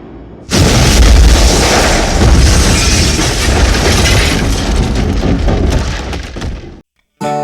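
Sea surf rushing on a shore, loud with a heavy low rumble, starting abruptly about half a second in and cutting off abruptly near the end.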